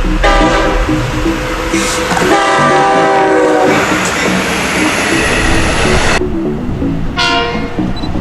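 Long Island Rail Road diesel push-pull train passing with a loud, steady rumble, its multi-tone horn sounding two long blasts and then a short one near the end.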